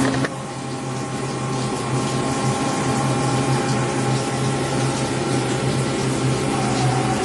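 Emco Turn 220 CNC lathe running, a steady hum with several constant tones over a hiss. Just after the start one tone stops and the sound drops a little, and a higher tone shifts up slightly near the end.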